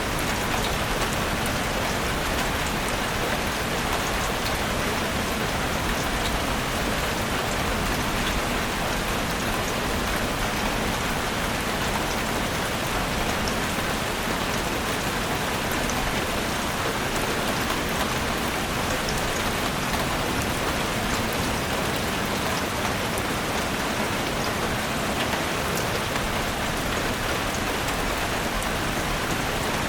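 Steady rain falling in a forest, an even hiss with individual drops pattering through it.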